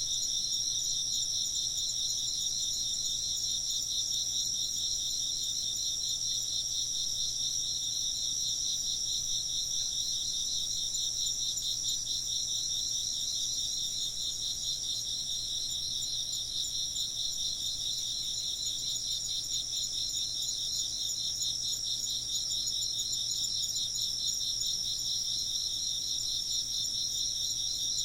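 Several insects chirping in a steady chorus: one a fast, even pulsing trill and another a continuous high-pitched ringing trill above it.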